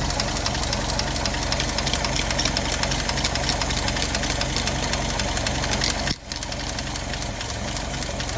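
1931 Pontiac flathead six idling with a rapid, steady clatter of valve lifter noise. The sound drops out for an instant about six seconds in, then resumes a little quieter.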